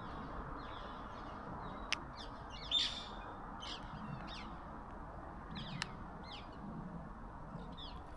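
Birds chirping and calling, with short high calls scattered through and one louder call about three seconds in, over a steady low background rumble. Two sharp clicks come about two and six seconds in.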